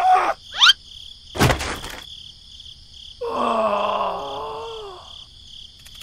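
A quick rising whistle, a single thud, then a long groaning tone that slowly falls in pitch, over steady cricket chirping.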